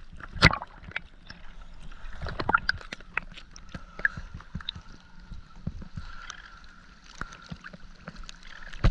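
Water gurgling and sloshing with many scattered sharp clicks and a faint steady hum, broken by short louder bursts about half a second and two and a half seconds in and again at the end.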